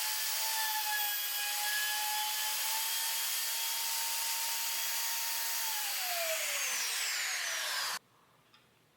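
Plunge router with a keyhole bit running at full speed in walnut, a steady high whine over a hiss. About two-thirds of the way through it is switched off and the whine falls as the motor spins down, then the sound cuts off suddenly near the end.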